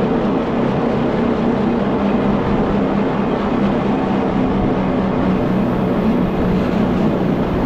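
A rack (cogwheel) railway train running downhill, heard from the driver's cab: a steady mechanical hum over the rumble of the wheels on the track.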